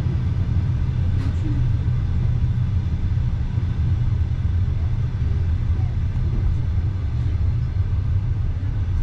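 Steady low rumble of a passenger train in motion, heard from inside the carriage: wheels running on the rails with the car's constant drone.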